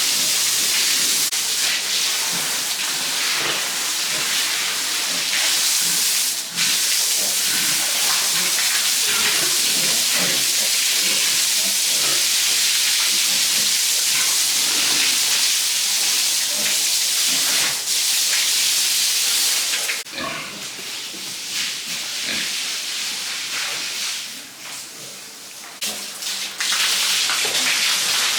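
Pigs grunting under a loud, steady hiss that drops away about twenty seconds in, leaving the animal sounds quieter and more broken.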